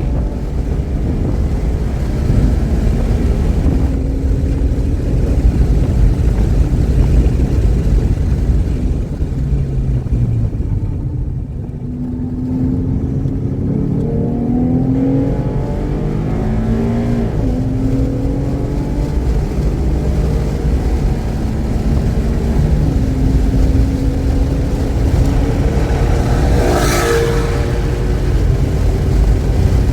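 Race-track car engine accelerating hard, its pitch climbing and stepping down at each gear change, with a lull under braking midway. The engine runs cleanly without misfiring. A brief harsh burst comes near the end.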